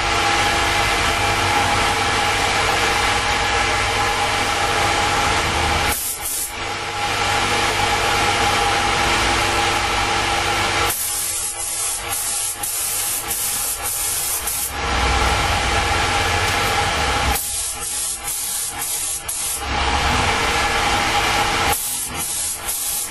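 Paint spray gun hissing as it sprays engine enamel, in long passes and in stretches of short on-off bursts from quick trigger pulls, over a steady machine hum.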